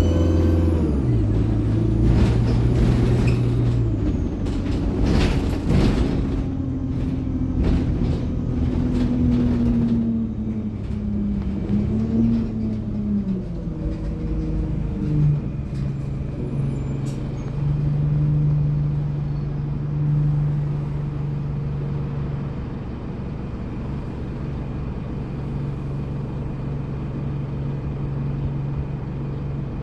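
Alexander Dennis Enviro200 bus with its Allison automatic gearbox and turbo whine. The engine note falls in steps over the first fifteen seconds, with several short sharp sounds including air-brake hisses, then settles to a steady low running note.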